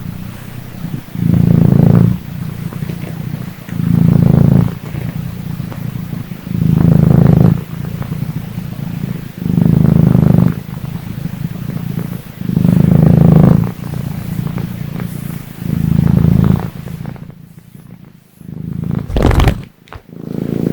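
Domestic cat purring close to the microphone, swelling loud with each breath about every three seconds. The purring fades near the end and is followed by a brief loud noise.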